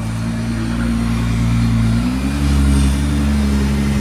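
Car engine running steadily at a low speed, then its revs rise a little about halfway through and hold at the higher pitch.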